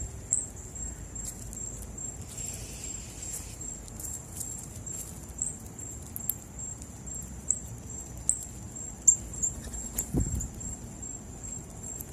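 Birds feeding on birdseed: scattered light clicks and a few short, high chirps over a steady high-pitched insect drone, with one soft thump about ten seconds in.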